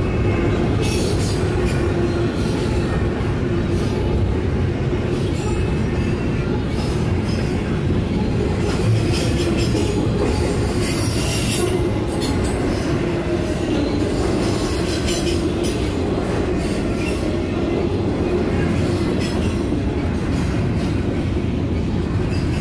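Double-stack container freight cars rolling past close by: a loud, steady rumble of steel wheels on the rails, with irregular rattles and clanks.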